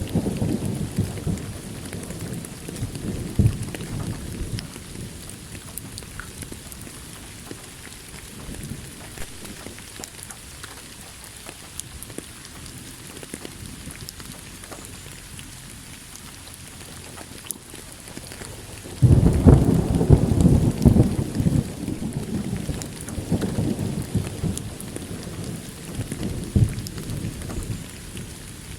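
Steady rain falling, with thunder: a rumble fading away early on, then a sudden loud thunderclap about two-thirds of the way through that rolls on and dies away over several seconds.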